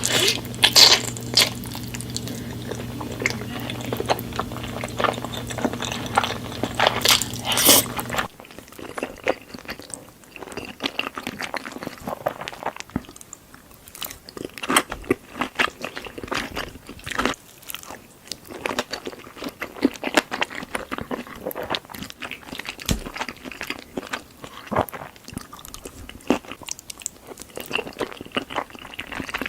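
Close-miked eating: a person biting and chewing, with many sharp crunches and wet mouth sounds. A steady low hum under the first eight seconds stops abruptly.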